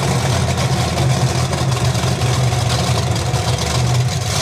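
Large vehicle engine idling steadily with a deep, even hum.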